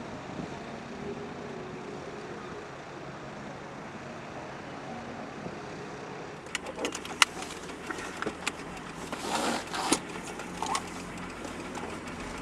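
A car driving slowly, with a steady low engine hum and road noise; from about halfway, a run of sharp clicks and knocks and a few short, louder rattles.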